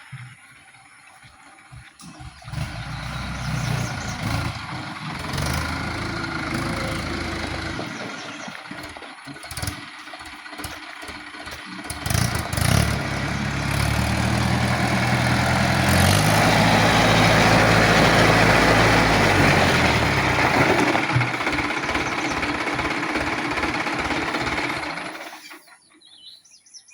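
Tractor engine running, revving up about halfway through and running loud, then stopping abruptly near the end.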